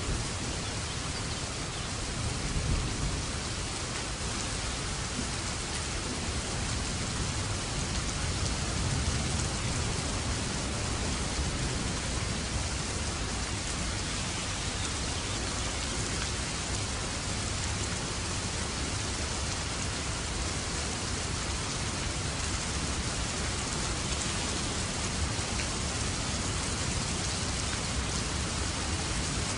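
Steady rain falling and pattering on surfaces, with a low rumble of thunder in the first few seconds.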